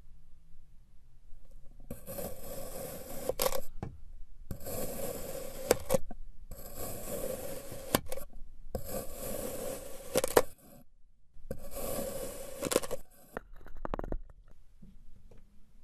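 Five scraping strokes in a row, each about a second and a half long, with short gaps between them and small sharp clicks within each stroke. A few faint clicks follow near the end.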